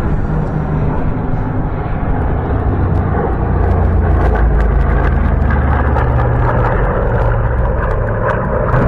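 Aircraft flying past, its engine noise a loud rumble that builds about three seconds in and stays loud.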